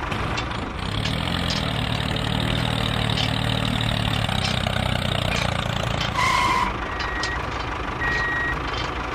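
Engine sound of a miniature model construction vehicle running steadily, followed by a few short high electronic beeps like a reversing alarm in the second half.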